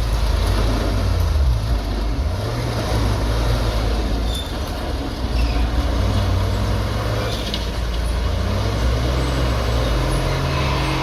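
Diesel engine of heavy earthmoving machinery running, its pitch rising and falling with the throttle over a steady low rumble.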